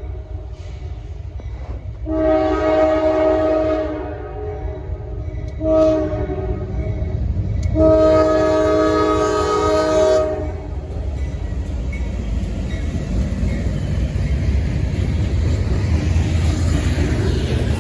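Locomotive's multi-note air horn sounding a long, a short and a long blast, the close of the long-long-short-long grade-crossing signal, over the steady low rumble of the train, which carries on after the horn stops.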